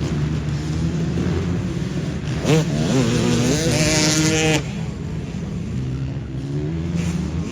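Motocross dirt bike engines running, with one bike revving up from about two and a half seconds in and dropping off sharply near the middle.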